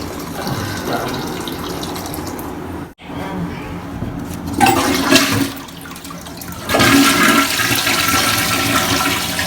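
Water running steadily, then a toilet flushing with a loud rush of water starting about two-thirds of the way through.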